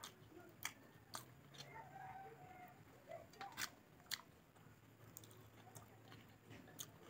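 A person chewing a mouthful of rice and smoked pork, faintly, with a handful of sharp smacking clicks in the first four seconds or so.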